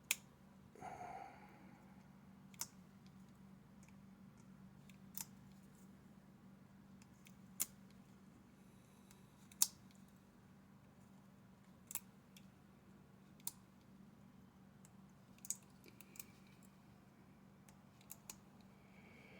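Sharp small clicks, about ten of them spaced a second or two apart, as small glued braces are removed one after another from a model wreck's boat deck, over a steady low hum in the room.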